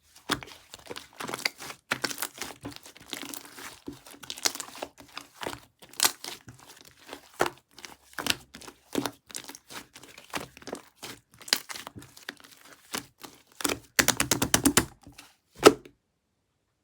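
Opaque chocolate pudding slime being squished and pressed by hand, giving irregular wet pops and crackles. A quick run of crackling comes about 14 seconds in, and a single loud pop near the end.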